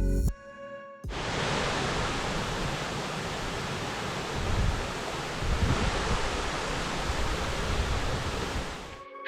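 Waterfall roaring steadily: an even rushing noise that starts abruptly about a second in and cuts off just before the end.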